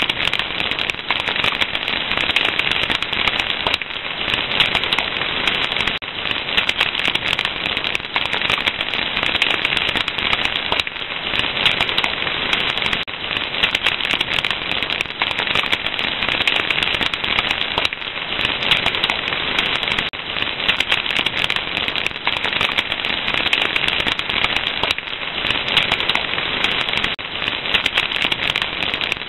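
Fire crackling steadily: a dense, continuous stream of small pops and snaps.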